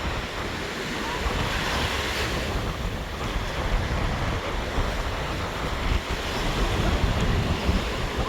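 Rough Sea of Azov waves breaking and washing on the shore, with strong gusty wind buffeting the microphone.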